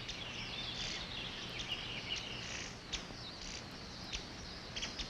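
Forest ambience with small birds chirping and twittering, short high hissing patches and a few sharp ticks over a steady background.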